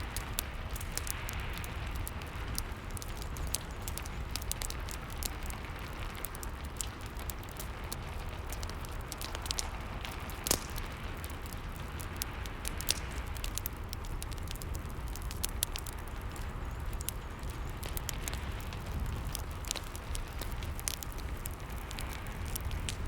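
Fireplace crackling, with many sharp pops over a steady low rumble, mixed with the soft hiss of rain. A couple of louder pops come about ten and thirteen seconds in.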